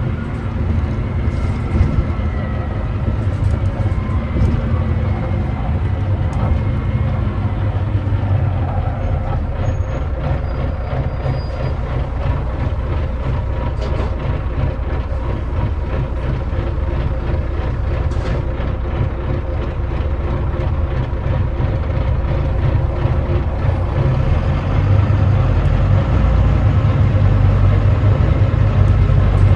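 Volvo D9B 9.3-litre diesel engine of a Volvo B9TL double-decker bus running under way, heard from on board, with a steady low drone and light rattles; the engine is described as misfiring. It grows louder near the end, as if pulling harder.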